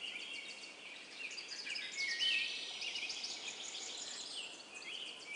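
Nature ambience of small birds chirping and trilling, many short high calls overlapping over a faint hiss.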